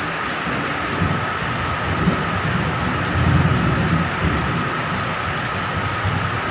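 Steady heavy rain with low rumbles of distant thunder that swell and fade, strongest a couple of seconds in.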